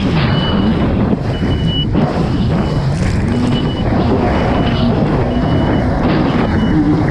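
Kawasaki STX 160 personal watercraft engine running at racing speed, its pitch rising and falling as the throttle and load change. A short, high-pitched beep repeats about once a second over it.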